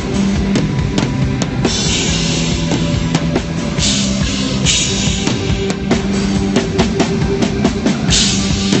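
Rock band playing live at a sound check: a drum kit with regular hits and recurring cymbal crashes over held bass notes. The sound is dull at the top, as from a low-quality stream capture.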